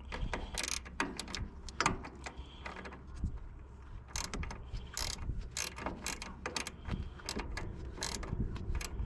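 Ratcheting wrench clicking in short, irregular runs as a half-inch nut is tightened down on a wire's terminal stud.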